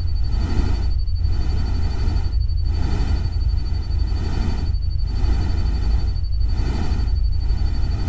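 Steady hiss of a rain-and-stream nature-sound track over a strong low rumble, with a faint constant high whine. The hiss dips briefly about every second and a half, like a short looped recording.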